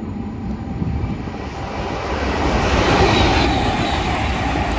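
A pair of Class 221 Voyager diesel trains passing through at speed: a steady rush of engine and wheel noise that builds over the first three seconds and stays loud.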